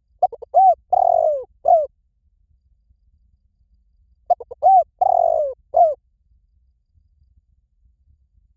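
Spotted dove cooing: two identical phrases about four seconds apart. Each is a few short coos, then a longer drawn-out falling coo and a short closing note.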